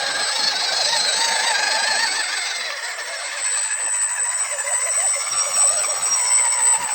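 Radio-controlled off-road crawler's electric motor and gearbox running, a whine that wavers in pitch with the throttle over a steady high-pitched whine.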